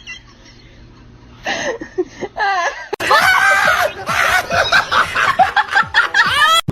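Human laughter: a few short pitched sounds, then loud, rapid laughing from about three seconds in.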